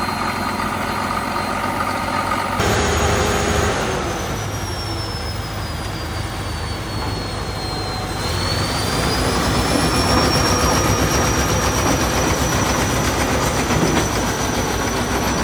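Heavy diesel engine running steadily, with a high whine that slides down in pitch over several seconds and then rises again and holds. The sound changes abruptly a few seconds in.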